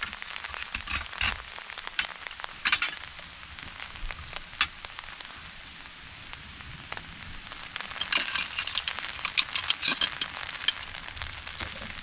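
Heavy rain falling, a steady hiss with many sharp drop strikes that come thickest in the first few seconds and again later on.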